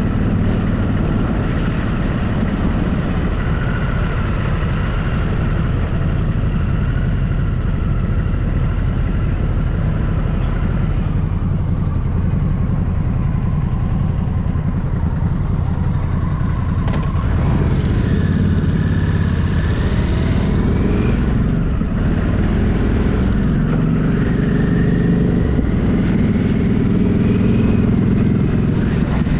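Motorcycle engine running steadily under way, heard from on the bike, its pitch rising and falling a few times in the second half as the rider changes speed.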